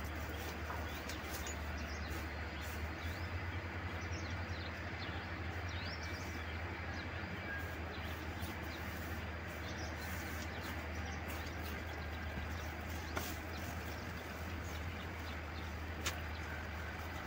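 Small birds chirping in short, repeated rising notes over a steady low hum, with a few sharp clicks near the end.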